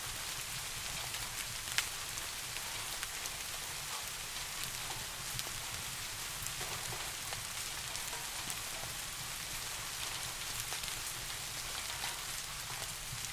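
Steady rain falling, with scattered sharp ticks and one louder click about two seconds in, over a low steady rumble.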